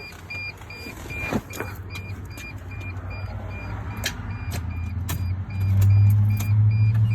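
Starter relay and solenoid of a 2003–2006 Mercedes T1N Sprinter van clicking irregularly as the key is turned, with the engine not cranking: the no-start fault. A rapid warning chime beeps steadily throughout, and a low hum gets much louder about five and a half seconds in.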